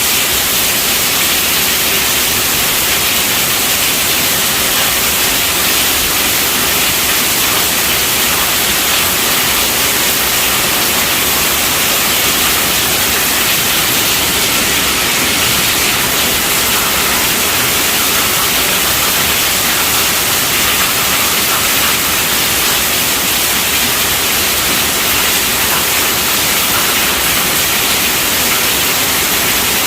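Heavy rain falling on a tent roof: a steady, unbroken hiss.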